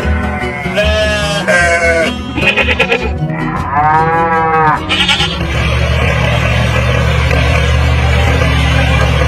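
Drawn-out bleating calls, a couple of them in the first five seconds, over a low hum; then a steady engine-like drone takes over at about five and a half seconds.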